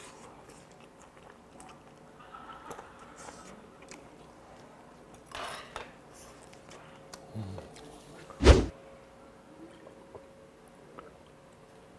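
A person chewing boiled chicken, with small mouth and utensil sounds over a faint steady hum. A brief hiss comes about halfway through, and a single loud thump about two-thirds of the way in is the loudest sound.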